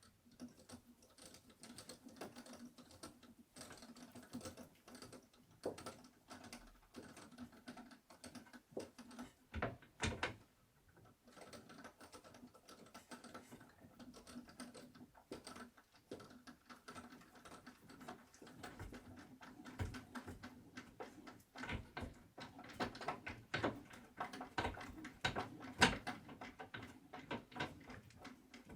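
Wooden bed parts and hardware being handled during assembly: a rapid, irregular run of light clicks and taps on wood, with a few louder knocks, one about ten seconds in and another near the end.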